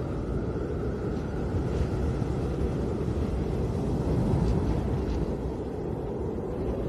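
Snowstorm wind blowing in a steady low rush, with a faint whistling howl starting to rise near the end.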